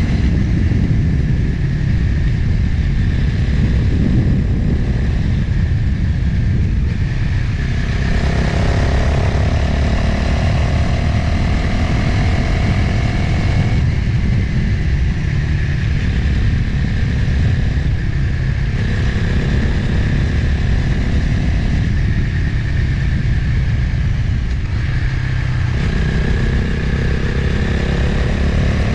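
Motorcycle engine running under way, with heavy wind rush on the microphone; the engine note changes several times as the revs rise and fall.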